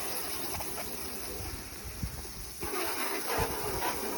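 Water spraying from a hose onto a car body, a steady hiss of spray that shifts in tone about two and a half seconds in as the stream moves across the panels.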